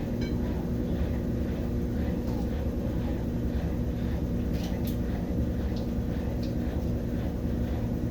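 Brastemp BWK17 17 kg washing machine on its spin cycle: a steady mechanical hum with a low rumble, holding one even pitch throughout.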